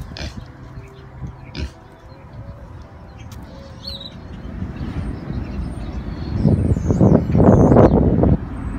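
Small birds chirping over a low outdoor rumble, which swells about six and a half seconds in into a loud rushing noise that cuts off sharply near the end.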